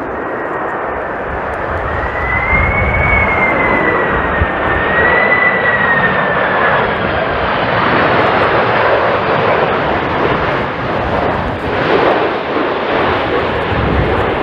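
Jet airliner passing close by at low altitude, engine noise building over the first couple of seconds and then staying loud, with a high whine that wavers up and down in pitch before fading out about halfway through.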